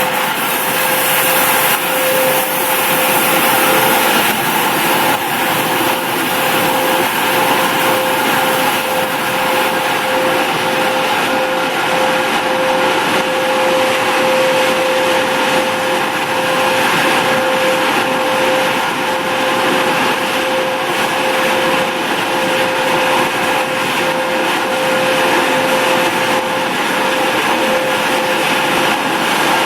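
Automatic car wash machinery running: a steady electric motor whine, freshly spun up, over a continuous rushing noise.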